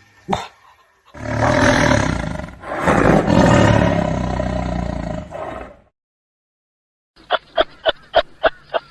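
A tiger roaring: two long, loud roars, one straight after the other, lasting about five seconds in all. Near the end, after a pause, comes a rapid run of short pulsing calls, about five a second, from another animal.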